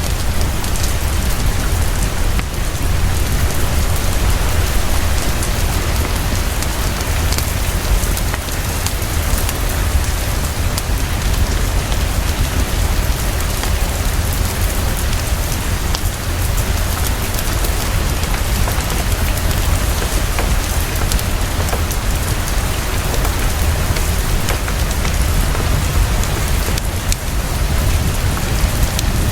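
Heavy, steady rain pouring, a dense, even hiss with a constant low rumble underneath.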